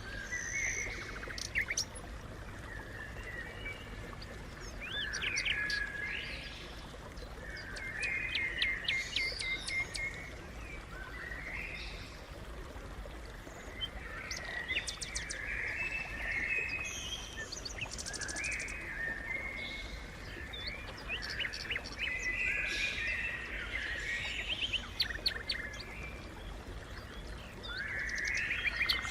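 Sparrows chirping in repeated bursts of short, quick chirps, over a steady low background rumble.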